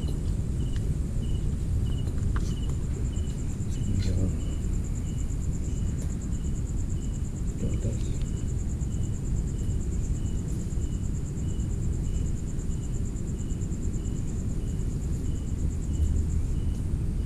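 Night insects calling: a continuous high, buzzing trill and a separate chirp repeating a little under twice a second, over a steady low rumble, with a few faint knocks.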